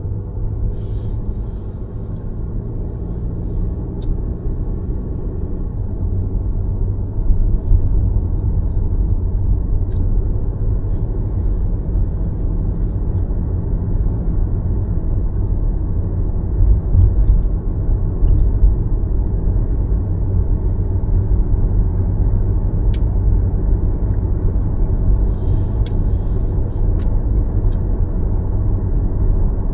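Car driving on city roads: a steady low road and engine rumble, with a few faint sharp clicks scattered through it.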